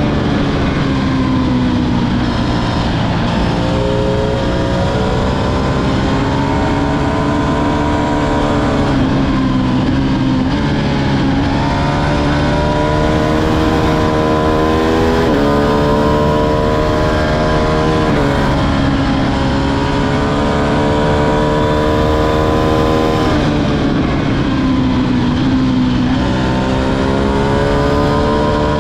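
Ducati Streetfighter V2's 955 cc L-twin engine being ridden hard, its pitch climbing and falling again and again as it is worked through the rev range, with a few sudden drops and several slower falls.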